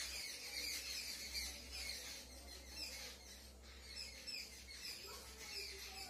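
Faint, scattered bird chirping over a steady low hum.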